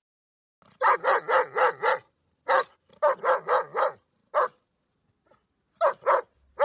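A dog barking: about a dozen short barks in quick runs, with brief pauses between the runs.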